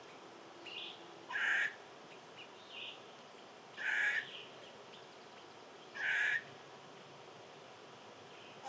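A bird gives three loud, harsh calls about two and a half seconds apart, each about half a second long. Faint short chirps of other small birds come between them.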